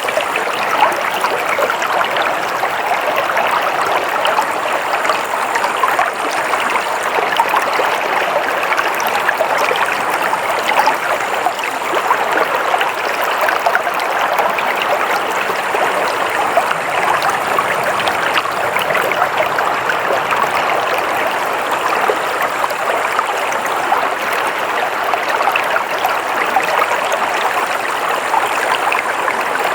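A stream of water flowing steadily, a continuous even rushing and trickling.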